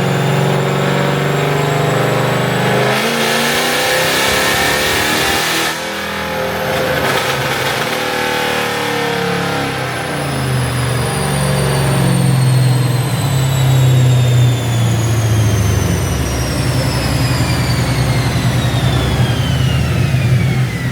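Car engine revved hard for a few seconds, then a long high-pitched whine falling steadily in pitch as the car winds down over a steady engine drone.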